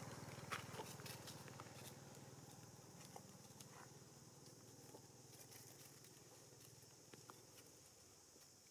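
Near silence: faint scattered clicks and rustles over a low hum that slowly fades away.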